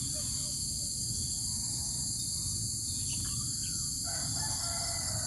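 A steady, high-pitched insect chorus of crickets, with a low rumble underneath. Faint chirps join in about four seconds in.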